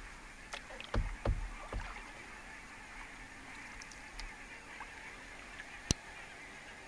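Canoe being paddled: several knocks and splashes of the paddle in the first two seconds, then a single sharp click about six seconds in.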